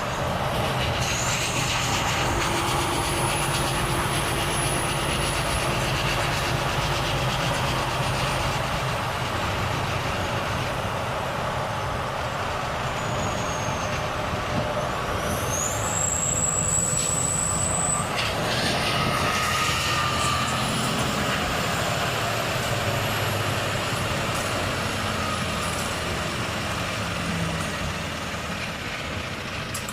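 Volvo FH truck driving, its diesel engine running steadily under road noise, with a few thin high whistles, the clearest one rising briefly about halfway through.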